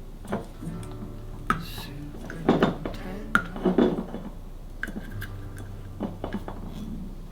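Dishes and kitchenware being handled and set down: a scattered series of knocks and clinks, a couple of them ringing briefly like glass or ceramic.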